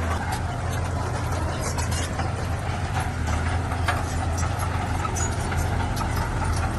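Heavy diesel engine of an earthmoving machine running with a steady low drone, with scattered clicks and rattles over it.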